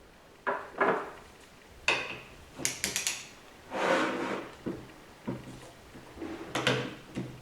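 Metal transmission parts and hand tools being handled during reassembly: a series of separate knocks, clunks and scrapes, with a quick run of sharp clicks about three seconds in.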